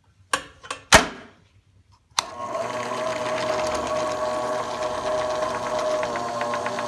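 A few sharp knocks, then about two seconds in an electric drill press starts up suddenly and runs steadily with a whine while drilling into steel plate.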